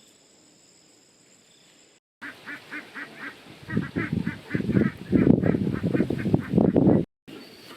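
Domestic fowl honking in a quick run of repeated calls, about five a second, with louder rough noise in the second half.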